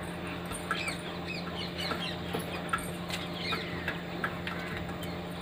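Birds chirping in short, scattered calls, over a steady low hum.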